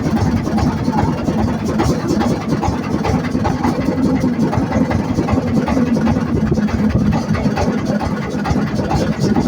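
Boat engine running steadily, with a constant low hum.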